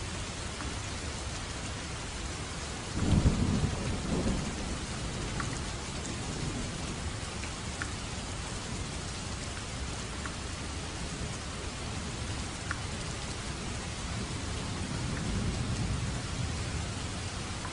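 Steady rain falling, with a burst of thunder about three seconds in and a softer rumble of thunder near the end.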